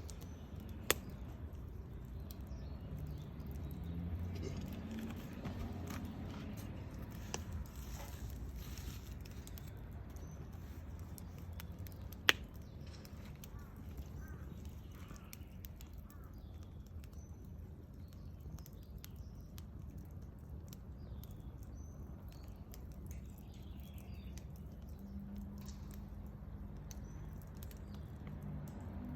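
Wood bonfire crackling, with scattered small clicks and two sharp pops, about a second in and about twelve seconds in, over a low steady rumble.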